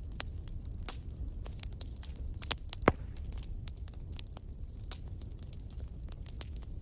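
Wood fire crackling: irregular sharp snaps and pops over a low, steady rumble, with one louder pop about three seconds in.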